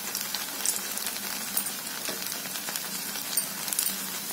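Malpua batter deep-frying in hot ghee in a pan: a steady sizzle with scattered small crackles and pops.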